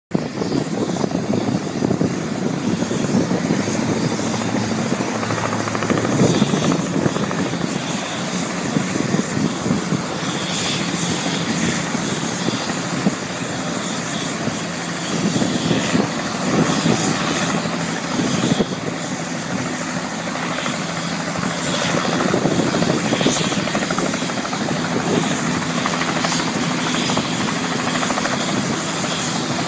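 Helicopter landing, its rotor and turbine engine running loud and steady, swelling and easing every few seconds.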